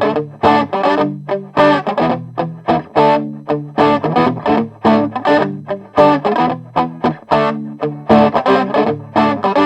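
Electric guitar played through a Behringer TO800 Vintage Tube Overdrive pedal into a Marshall Valve State 80 amplifier: short, overdriven chords struck in a steady, choppy rhythm, several a second.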